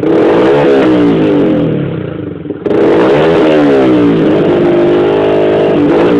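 Yamaha YZF R15's single-cylinder engine revved through a Two Brothers aftermarket exhaust, with repeated blips whose pitch climbs and falls back. Near the end the revs are held high and steady for over a second before dropping.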